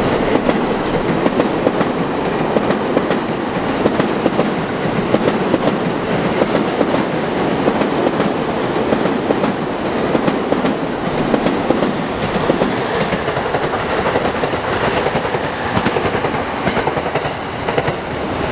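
Sotetsu (Sagami Railway) electric commuter trains running past close by, a steady rumble with wheels clattering over rail joints and points.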